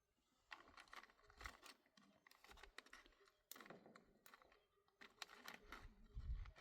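Faint, irregular clicks and light knocks, several a second, with a couple of dull low thumps.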